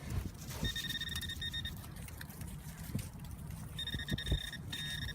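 Metal detector sounding its high, rapidly pulsing target tone: once for about a second, then again from a little before four seconds on. Wind buffets the microphone underneath with a low rumble and a few thumps.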